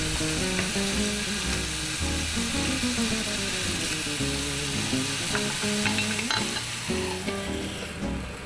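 Chicken thigh pieces and green onion sizzling in a hot sandwich maker over a gas burner: a steady frying hiss, with background music underneath. The sizzle thins out near the end.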